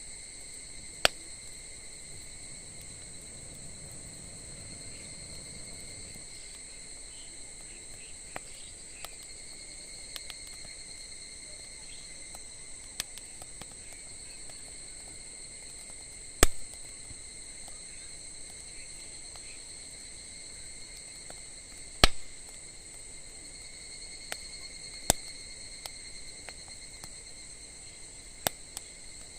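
Wood fire crackling, with a handful of sharp, scattered pops over a steady high chirring of insects.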